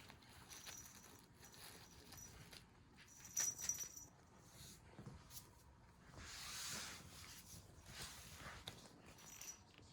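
A cat toy being played with, faintly: short jingling rattles, the sharpest about three and a half seconds in and another near the end, with a longer swishing rustle around six to seven seconds.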